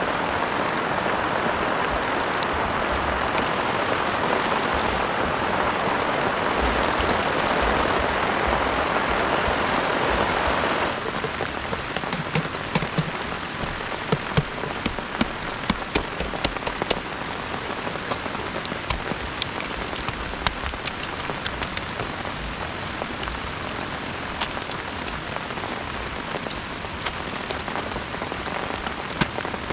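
Heavy rain falling in a dense, steady rush; about eleven seconds in it changes abruptly to a somewhat quieter rain with many distinct, sharp drop hits.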